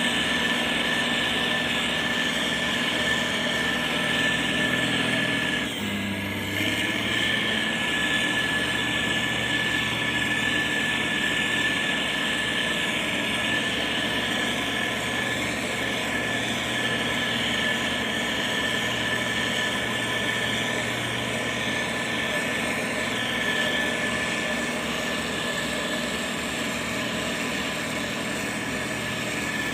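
Heavy construction machine's diesel engine running steadily, with a brief dip in level and a shift in the engine note about six seconds in.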